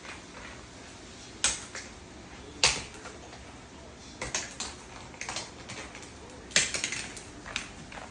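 Scattered sharp clacks and clatters of a cockatoo tossing and knocking its toys about. The loudest knocks come about one and a half, two and a half and six and a half seconds in.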